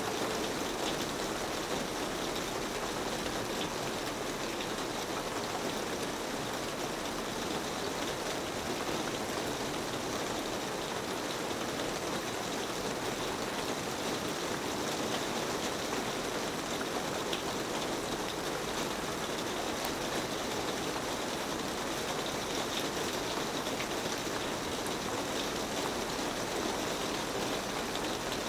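Steady rain falling on a rusty metal roof, an even hiss of drops with faint scattered patters.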